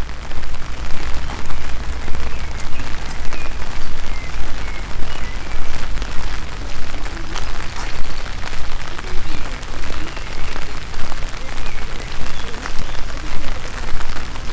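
Steady rain falling, with many separate drops ticking close by over an even hiss and a low rumble underneath.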